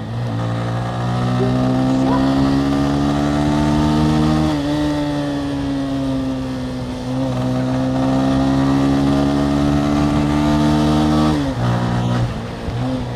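Motorcycle engine pulling under throttle. Its pitch climbs for about four seconds and drops sharply at a gear change, then climbs again for several seconds before falling away near the end.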